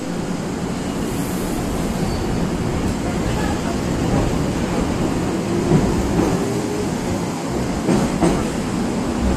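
Eizan Electric Railway train running, a steady low rumble, with two sharp clicks about eight seconds in.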